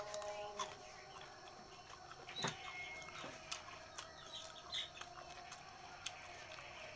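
Close-up chewing of salak (snake fruit) flesh: scattered short crisp clicks and wet mouth sounds. A couple of short high calls, like a bird or a chicken, sound in the background.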